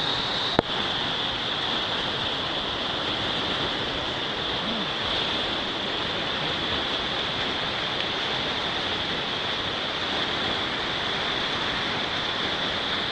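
Steady rush of water from a waterfall, with one sharp click about half a second in.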